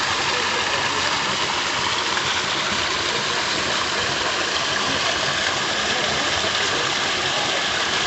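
Steady, continuous rush of water pouring over a waterfall.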